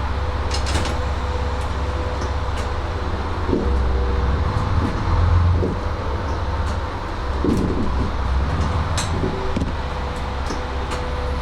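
Diesel railcar's engine and running noise, heard from inside the carriage: a steady low rumble with a faint hum, occasional clicks and knocks, and a swell in loudness a few seconds in.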